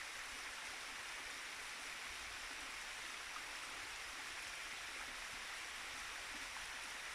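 Fast-flowing river water rushing steadily, an even hiss without breaks.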